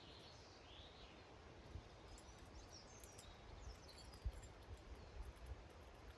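Faint garden ambience: small songbirds give brief, high chirps over an uneven low rumble, with light ticks and a few soft knocks.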